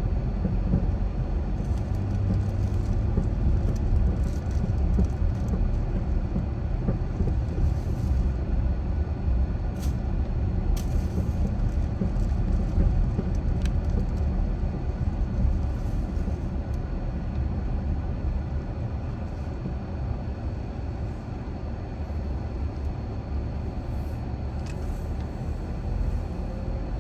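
A car driving, with a steady low road and tyre rumble. A few faint sharp clicks come through the middle, and the rumble eases slightly in the second half.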